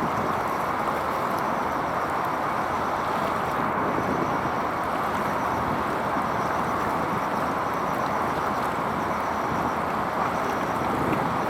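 Steady rushing noise of wind on the microphone, even throughout, with no distinct engine note, horn or other event standing out.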